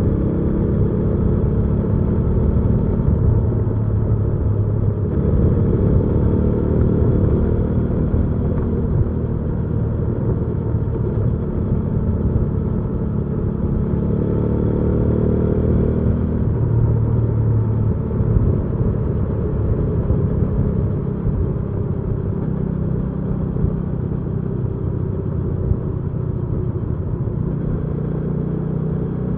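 Hyosung GV300S Aquila 300's V-twin engine running under way. Its note rises with speed and drops sharply at gear changes about five seconds in and again about sixteen seconds in.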